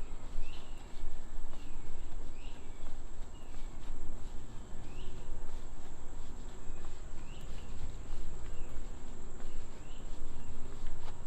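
Insects droning in one steady high-pitched whine, with a bird giving a short rising-and-falling call about once a second, over an uneven low rumble.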